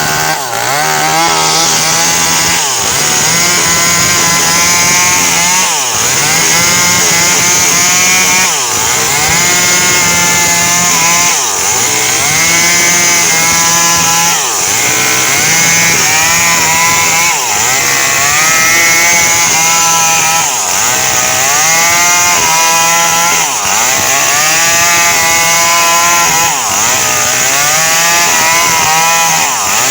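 Small two-stroke Stihl chainsaw running at high revs while cutting coconut trunk wood, its engine pitch dipping under load and rising again about every three seconds.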